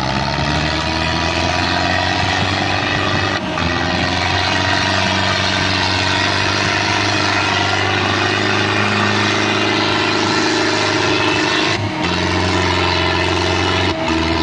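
Massey Ferguson 385 tractor's diesel engine running at high revs, its pitch climbing at the start and dropping near the end, with a few brief dips in between.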